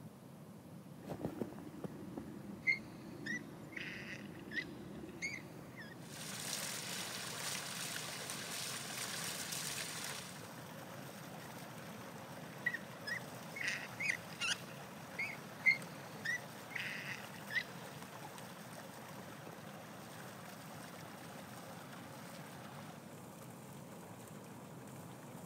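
Eurasian bullfinch giving short, soft chirping calls in two bouts of several notes each, a few seconds apart. Between the bouts there are a few seconds of steady hiss.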